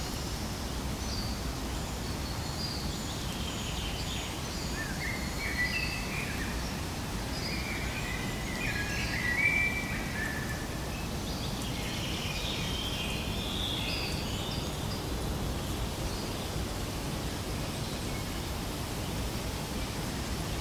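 Birds chirping and trilling in short calls over a steady outdoor background hiss, the calls thinning out over the last few seconds.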